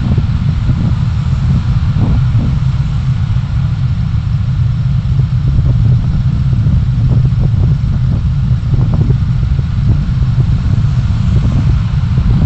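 A road vehicle in motion, heard as a steady, loud low rumble of engine and road noise, with brief knocks scattered through.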